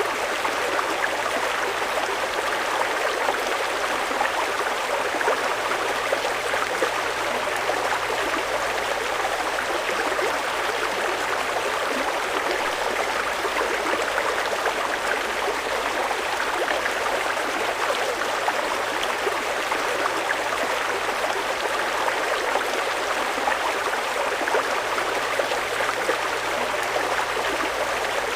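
Fast-flowing mountain river rushing steadily over rocks, a continuous even rush of water. A faint steady low hum runs underneath.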